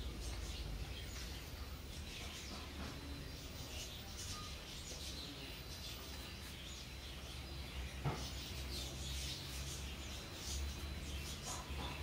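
Small birds chirping in short, repeated calls over a low steady rumble, with a single sharp click about eight seconds in.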